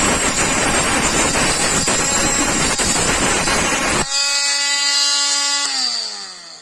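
Mini grinder grinding into a wood screw with a loud, gritty noise. About four seconds in, the grinding stops and the motor whines freely at a steady pitch, then falls in pitch and fades as it winds down.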